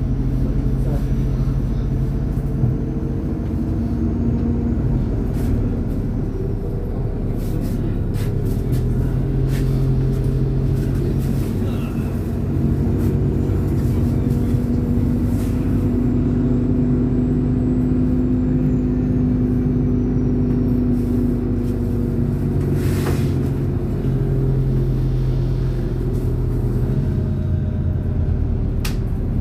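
MAZ-203 city bus running along the road, heard from inside the passenger cabin: a steady engine drone whose pitch steps up and down several times as the bus speeds up and slows.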